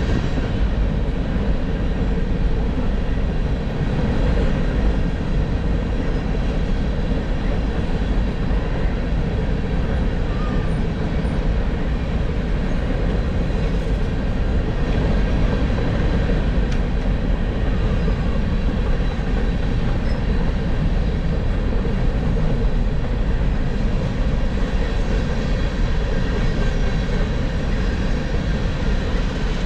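Freight train rolling past: a steady, unbroken rumble of wheels on rails.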